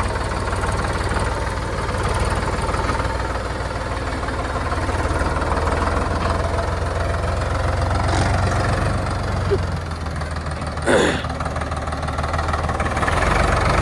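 Sonalika DI 50 RX tractor's diesel engine running steadily, with one brief sharp sound about eleven seconds in.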